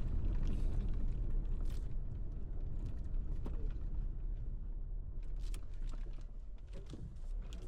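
Four-wheel-drive car driving on a rough dirt road: a steady low rumble of engine and tyres, with scattered short clicks and knocks.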